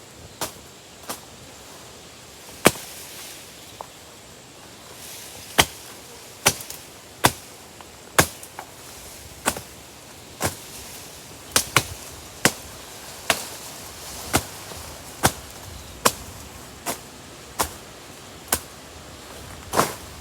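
Blade chopping at wood up in a petai tree: sharp strikes about once a second, unevenly spaced, a few in quick pairs.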